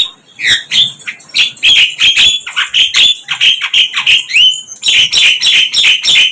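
Sikatan londo, a flycatcher, singing a fast run of loud, sharp chirping notes, about three to four a second, many sweeping down in pitch, with a brief break about two-thirds of the way through before the song picks up again.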